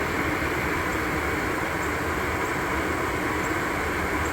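Atwood 8535-IV-DCLP RV furnace's blower motor running steadily with a rush of air and a low hum. This is the fan motor the owner says needs replacing, running while the furnace tries and fails to light.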